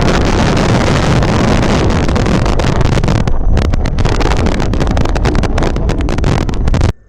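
Strong wind blowing across an outdoor nest camera's microphone: loud, steady wind noise that turns choppy in the second half and cuts off suddenly near the end.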